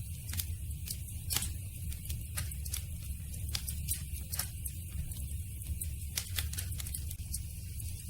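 Campfire crackling: frequent sharp, irregular pops and snaps over a steady low rumble of the burning fire.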